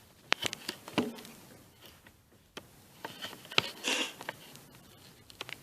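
Metal tool clinks and knocks, scattered sharp clicks with a short cluster about four seconds in, as a wrench works a nut loose on an air compressor's cylinder head.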